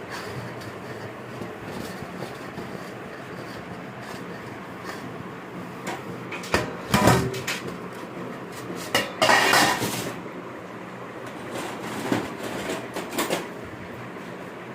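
Metal parts and tools clanking and rattling as they are handled, in three bursts, over a steady background hum.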